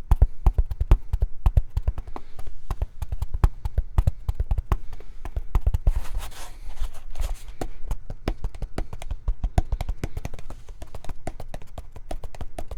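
Fast, rhythmic ASMR tapping, several sharp taps a second with a deep thud to each, with a short breathy hiss about six seconds in.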